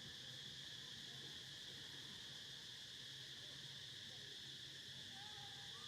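Faint, steady insect chorus: an even high-pitched drone with no breaks, over a low hum.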